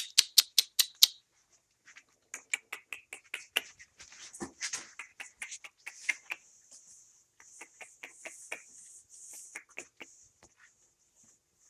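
Puppies eating meat: a run of quick, wet smacking and chewing clicks, with a fast burst of them at the start.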